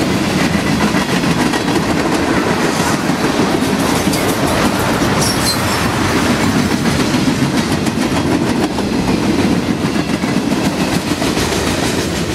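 Freight cars rolling past close by: a steady rumble of steel wheels on the rails with a continuous clickety-clack of wheels over the rail joints.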